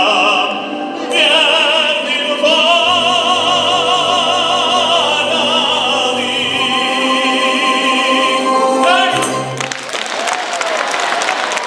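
A male operetta singer holds the long final note of a Russian Gypsy-style song with vibrato over the accompaniment, and the music ends about nine and a half seconds in. The audience then breaks into applause.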